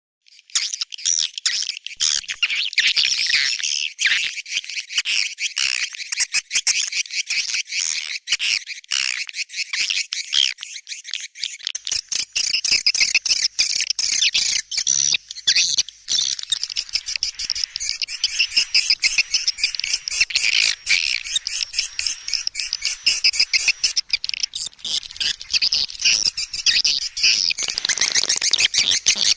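Recorded swiftlet calls: a dense, unbroken chatter of rapid high-pitched chirps and twitters from many birds. This is a swiftlet lure sound, played in a swiftlet house to call wild swiftlets in to roost and nest.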